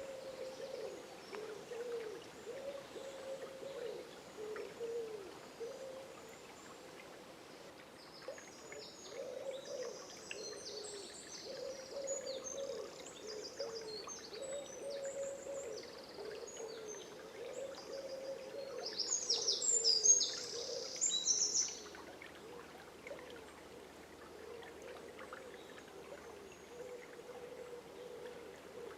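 Forest dawn ambience: a small songbird sings high, quick chirping phrases from about eight seconds in, loudest near the twenty-second mark, then stops. Under it runs a continuous low wavering murmur.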